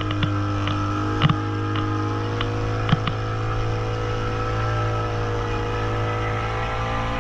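Motorboat engine running at a steady speed, with a couple of sharp knocks about one and three seconds in.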